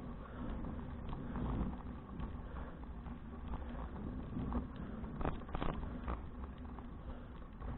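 Riding noise picked up by an action camera on a touring bicycle: a steady low rumble of wind on the microphone and tyres on the path, with scattered clicks and rattles, a cluster of sharper ones about five to six seconds in.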